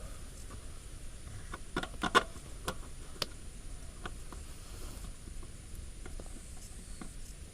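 Clicks and clacks of small hard parts being handled: a quick cluster about two seconds in with one sharp knock as the loudest, then a few scattered ticks. This is the generator's broken pull-start assembly being put back together.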